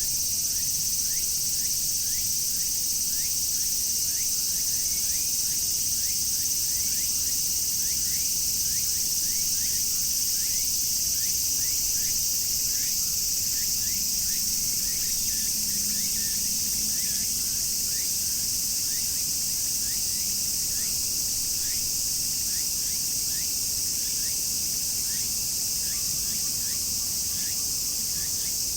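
Dense chorus of cicadas: a steady, unbroken high-pitched shrill. Beneath it runs a quick series of short falling chirps, about two a second.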